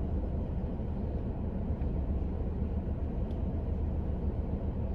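Steady low rumble of a car idling, heard from inside the cabin, with one faint tick about three seconds in.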